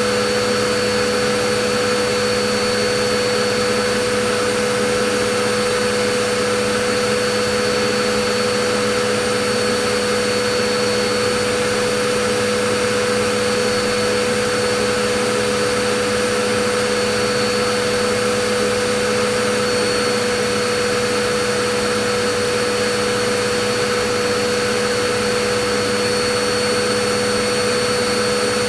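Vacuum cleaner motor running steadily: a constant whooshing hiss with a fixed hum and a high whine held at one pitch, unchanging throughout.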